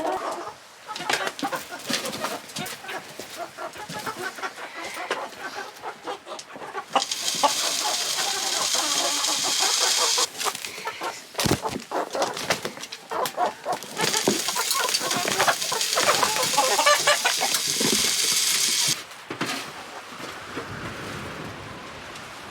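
Chickens clucking, with short clicks and calls. Twice a loud rushing hiss starts and stops abruptly, once about seven seconds in and again about halfway through; the first lasts about three seconds, the second about five.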